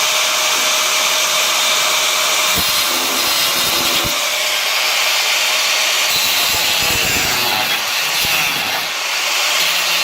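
Angle grinder with a cutting disc slicing through a steel strengthening plate, running steadily under load with the rasp of the disc in the metal.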